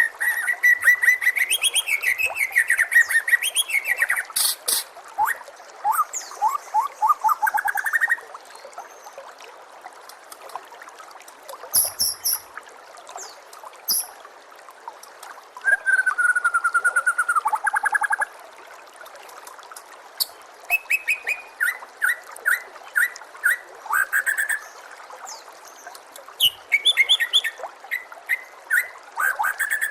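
White-rumped shama (murai batu) singing in bursts of varied whistled phrases and fast trills, some notes very high, with short pauses between bursts, over a steady trickle of running water.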